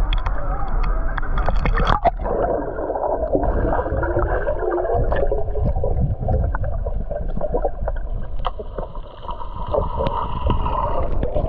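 Muffled underwater gurgling and bubbling as heard by a submerged camera, with scattered small clicks and knocks.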